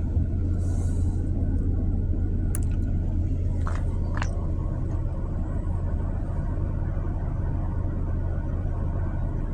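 Steady low rumble of a car heard from inside the cabin, with a few faint clicks about three to four seconds in.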